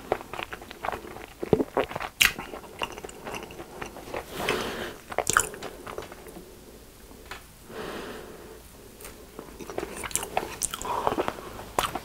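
Close-miked chewing of a crunchy crumb-coated hot dog, with crisp, uneven crunches and wet mouth sounds, a few crunches much louder than the rest. The crunching eases off for a while in the middle.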